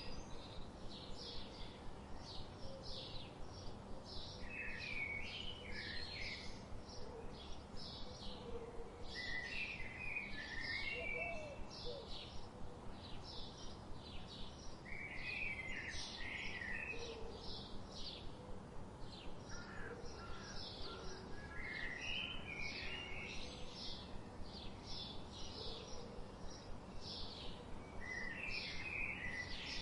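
Birds singing: a steady stream of short, quick high chirps, with a fuller warbling song phrase about every five or six seconds, over a faint steady hiss.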